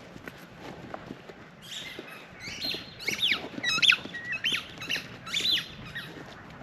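A songbird singing: a quick series of high chirps and sweeping whistled notes that starts about two seconds in and runs for about four seconds.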